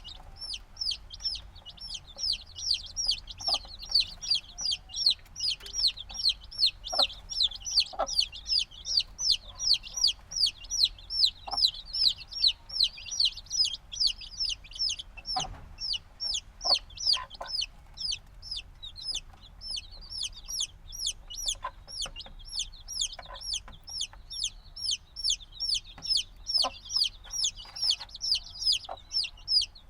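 A brood of chicks a few days old peeping without pause: shrill, repeated peeps at about two to three a second, each falling in pitch. Faint short ticks sound here and there underneath.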